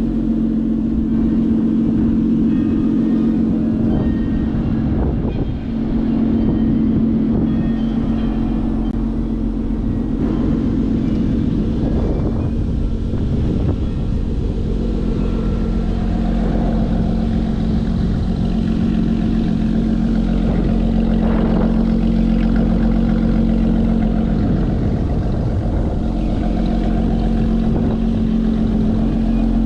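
Lotus Evora GT's supercharged 3.5-litre V6 idling steadily through its titanium exhaust, with no revving.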